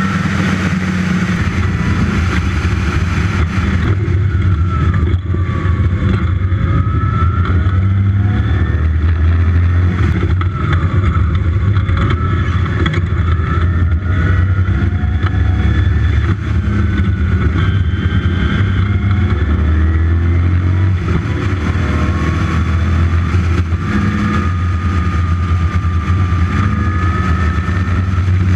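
Westfield's dry-sumped 5-litre V8 engine at full speed on track, its revs climbing and dropping again and again through gear changes, heard from the open cockpit.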